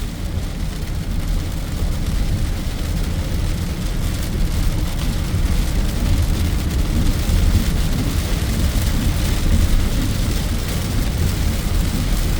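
Heavy thunderstorm rain and gusty wind: a steady rushing hiss over a deep low rumble, growing a little louder after about five seconds.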